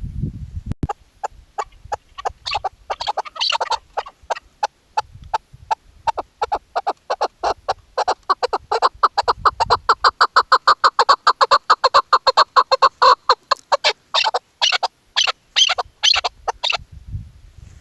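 Chukar partridge (chakor) calling: a long run of short clucking 'chuck' notes that starts slowly, quickens to several a second in the middle, then slows and stops near the end.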